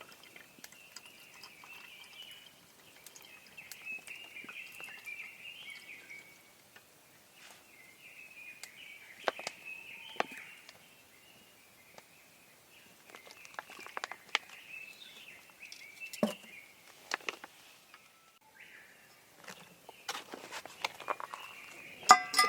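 Small birds chirping and twittering in bursts, with scattered sharp clicks and knocks among them.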